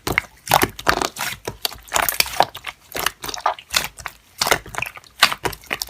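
Slime being squeezed and pressed by hand, giving irregular crackling clicks and pops.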